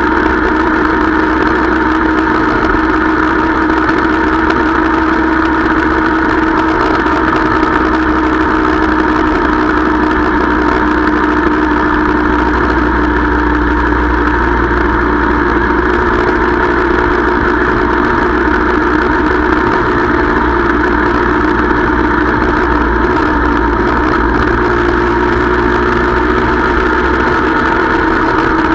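Motorcycle engine running at a steady pitch while riding, heard from on board the bike.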